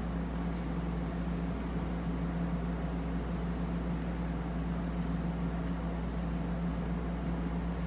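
Steady hum of an NJ Transit electric commuter train standing at a station platform: an even mechanical drone with a constant low-pitched tone from its fans and electrical equipment running while it waits.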